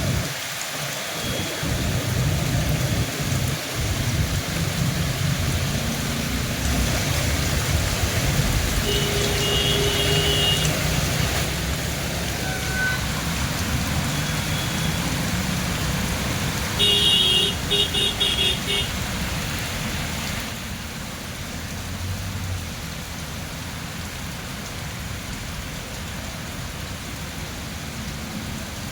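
Heavy rain falling steadily, with road traffic. A vehicle horn sounds once about nine seconds in and again in a run of short beeps around seventeen seconds. The rain grows quieter about twenty seconds in.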